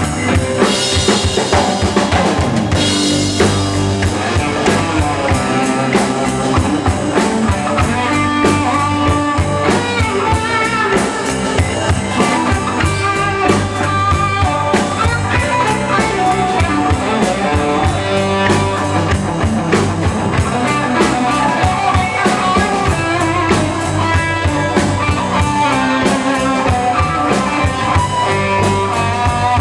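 Live band playing a slow rock-blues number without singing: drum kit, guitar, bass and keyboard, with the guitar carrying the melody. Cymbals crash about a second in.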